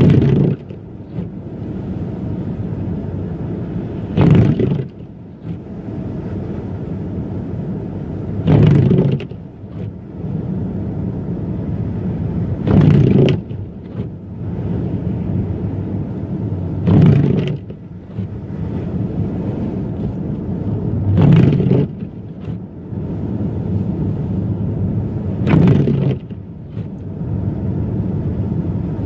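Car driving on snowy streets: a steady low rumble of engine and tyres, with the windshield wipers sweeping about every four seconds, each pass a short louder swish.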